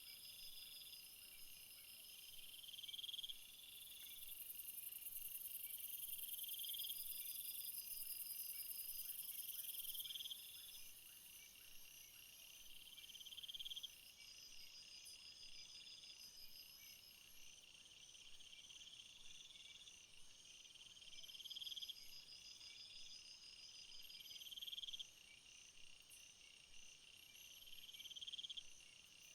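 Several crickets chirping together, faintly. One song comes in phrases every three seconds or so, each growing louder and then stopping abruptly. A very high, steady buzz joins in for roughly the first half.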